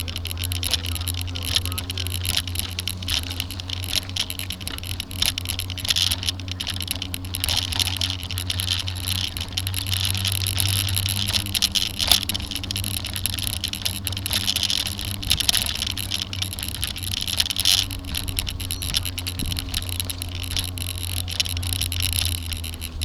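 Bike-mounted camera rattling and vibrating as the bicycle rides over bumpy cement sidewalk, a dense irregular clatter over a steady low rumble of wind and tyres.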